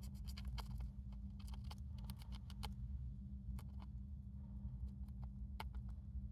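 Hamster crunching on cabbage: quick clusters of small crisp clicks over the first few seconds, then a few single ones, over a steady low hum.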